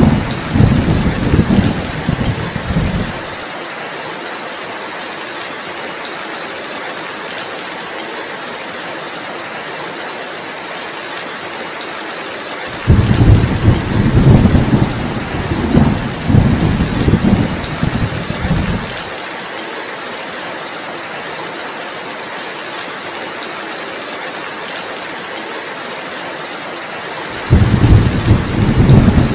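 Heavy rain falling steadily, with rolls of low rumbling thunder: one fading out about three seconds in, a longer roll through the middle, and another starting near the end.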